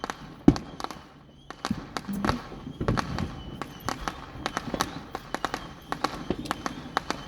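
Fireworks going off: a rapid, irregular string of sharp pops and cracks, the loudest about half a second in, with a brief lull just over a second in.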